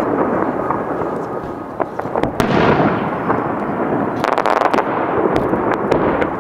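Fireworks shells bursting with a continuous rolling boom, a sharp bang about two and a half seconds in, and a quick run of crackles just after four seconds.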